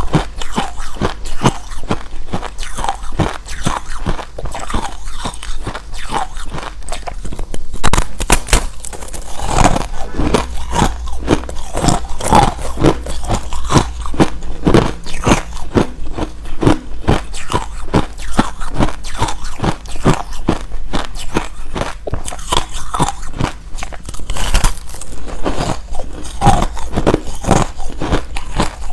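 Close-miked biting and chewing of hard refrozen crushed ice: a dense run of sharp, loud crunches, several a second, without let-up.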